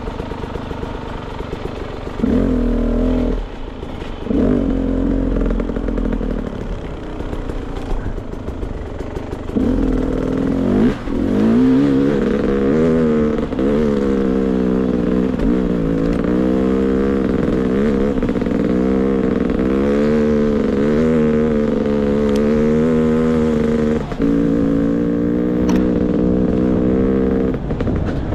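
Beta 300 RR two-stroke dirt bike engine idling, blipped twice, then pulling away and running on the trail with the revs rising and falling continuously.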